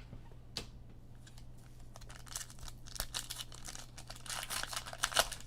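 Crinkling and rustling of a trading-card pack and its cards being handled, with a few light clicks at first and thicker crinkling from about two seconds in. A steady low electrical hum sits underneath.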